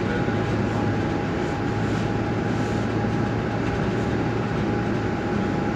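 Interior noise of a moving bus: steady engine hum and road rumble, with a thin steady whine above it.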